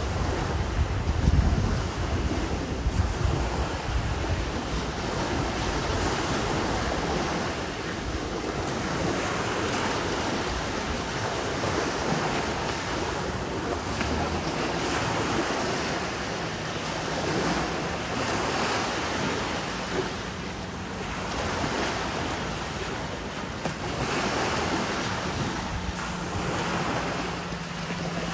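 Ocean surf washing onto the beach, swelling and fading every few seconds, with wind buffeting the microphone. A faint steady low hum joins in during the second half.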